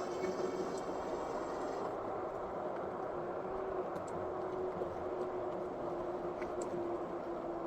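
Philodo Falcon e-bike's electric motor whining at a steady pitch over rumbling tyre and wind noise while riding.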